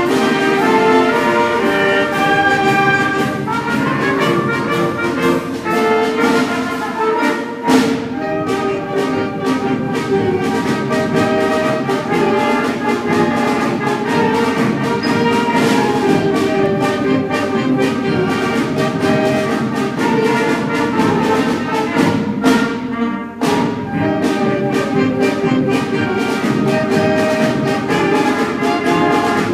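School concert band playing a march, brass and woodwinds sounding full chords, with a couple of sharp hits about eight seconds in and again past the twenty-second mark.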